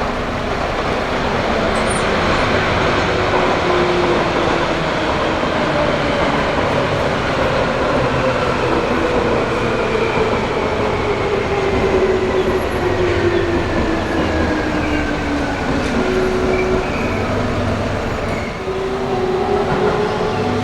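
Electric train passing close, its wheels rumbling on the rails, with a motor whine that falls slowly in pitch over most of the pass.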